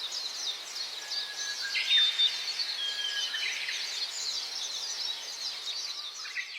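A chorus of many small birds chirping and twittering rapidly and without pause, with a few longer whistled notes held about one to three seconds in, over a steady background hiss.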